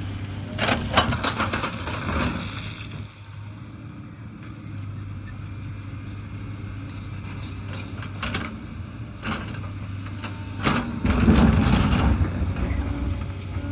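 Hyundai excavator's diesel engine running steadily with a low hum. There are two spells of loud scraping and clattering, one about a second in and one near the end, with a few single knocks between them.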